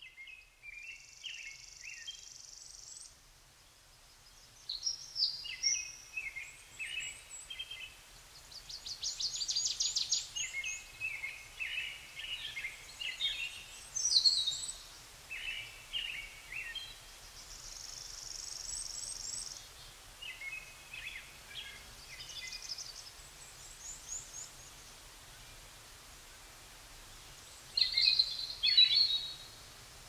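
Songbirds singing and calling: short chirps, rapid trills and whistled phrases from several birds, overlapping, with a steady high buzzing that comes and goes near the start and about two-thirds through. The loudest calls come about halfway and near the end.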